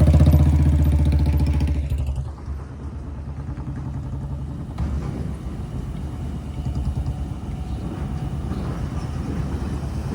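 Heavy diesel engine running loud and close, its note falling away sharply about two seconds in, then a lower, uneven engine rumble carrying on.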